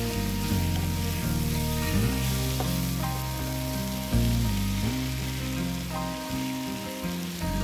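Food sizzling as it fries, a steady crackling hiss, under background music with held notes that change every second or two.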